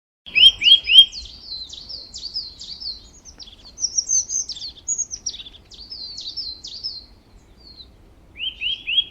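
A songbird singing: three loud slurred notes, then a fast, varied run of higher notes, and three of the opening notes again near the end.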